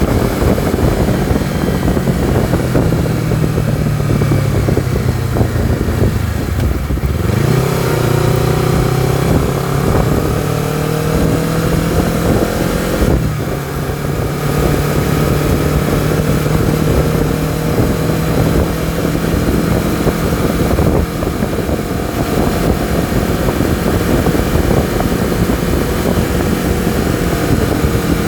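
Honda CBR250RR motorcycle engine under way: the engine note falls as the bike slows for the first several seconds, then climbs as it accelerates, with a brief break around the middle at a gear change, and then holds steady at cruising revs.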